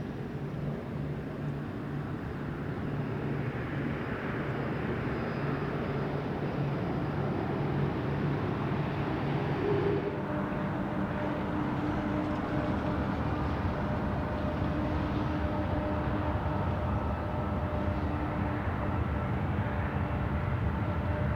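Jet airliner engines running: a steady rush with several whining tones that shift about halfway through, growing slightly louder.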